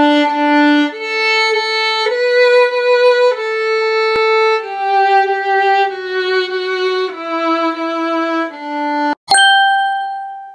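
Solo violin playing a slow melody of held, bowed notes, one after another, first climbing then stepping down. It ends on a sharply started final note that rings away.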